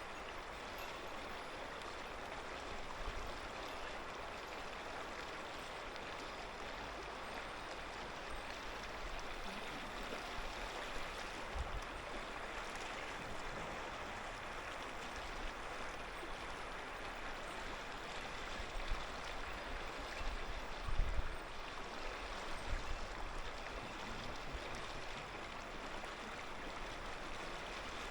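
Clear mountain river flowing steadily, an even rushing babble of water. A few brief low bumps stand out, about twelve and twenty-one seconds in.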